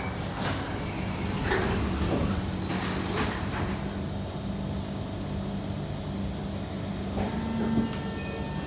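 Sliding doors of a Kawasaki C151 metro train closing, with several knocks in the first few seconds. A steady hum from the train follows, and near the end a tone rises as the traction motors start the train moving.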